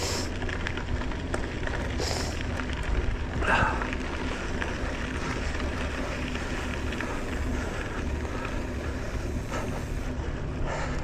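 Wind rumbling on the microphone while riding a bike along a dirt trail, with steady tyre and rattling noise and a couple of brief sharper squeaks or clacks a few seconds in.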